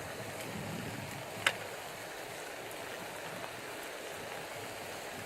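Steady hiss of rain falling outdoors, with a single sharp pop from the burning wood fire about a second and a half in.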